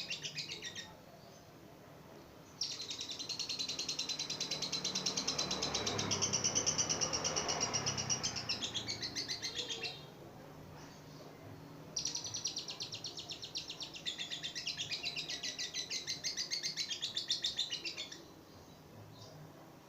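Female lovebird singing in long, rapid chattering trills. There are two bouts of several seconds each, with a short pause between them.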